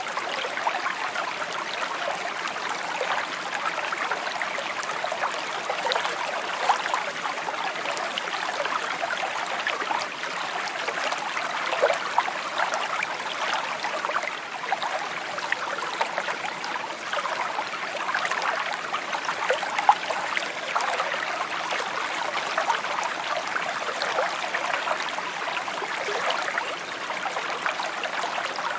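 Shallow stream babbling and trickling over stones, a steady rush flecked with small splashes and gurgles.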